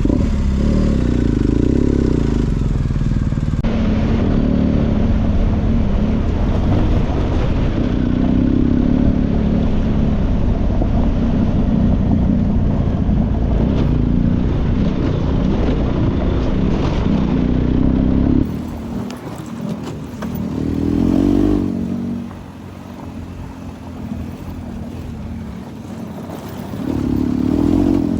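Motorcycle engine running as the bike is ridden, a loud steady rumble for most of the time, then quieter near the end with a couple of swells as the engine picks up speed.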